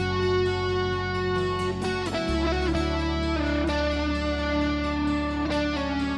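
Instrumental music led by a sustained melodic electric guitar over steady held bass notes.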